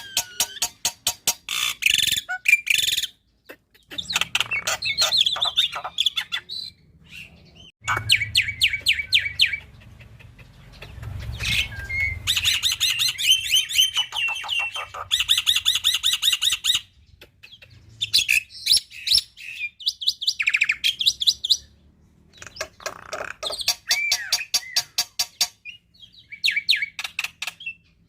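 Black-winged starling (jalak putih) singing: bursts a few seconds long of rapid, sharp repeated notes and chattering phrases, each separated by a brief pause.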